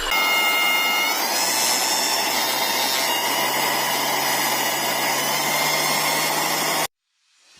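Small brushless (BLDC) motor spinning a CPU fan blade at high speed: a steady whirring rush of air with a high whine that steps up in pitch about a second in, then cuts off suddenly near the end.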